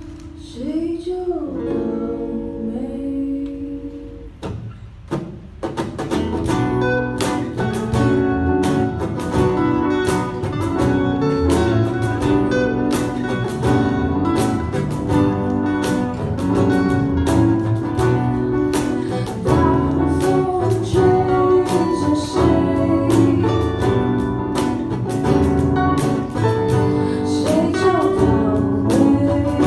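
Band music led by guitar: a sparse opening with a few held and sliding notes, then the full band comes in about five seconds in and plays on with a steady beat.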